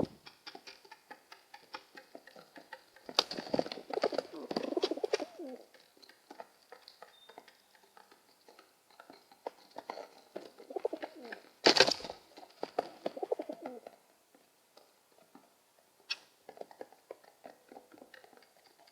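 Domestic pigeons cooing in several bouts, low rolling calls, among scattered light clicks. A single loud sharp clap comes about halfway through.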